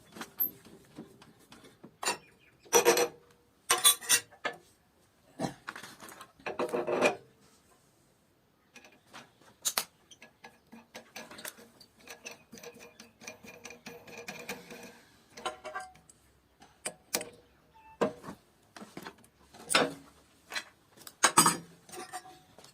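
Scattered taps, knocks and scraping of hand work on wood, irregular and without any power tool running.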